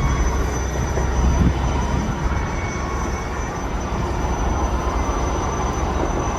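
Freight train cars rolling past, a steady rumble and rush of steel wheels on the rails.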